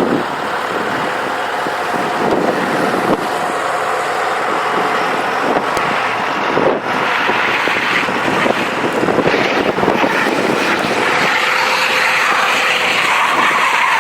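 Vehicle engine running hard under load in a snow-stuck recovery, with a rushing noise that grows louder about eight seconds in.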